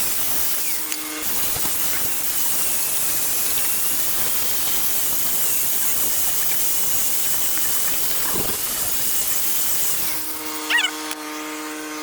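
Cutting torch gouging out an old weld on a steel truck frame rail, a steady hiss of the flame and oxygen stream cutting through the steel. The hiss stops about ten and a half seconds in.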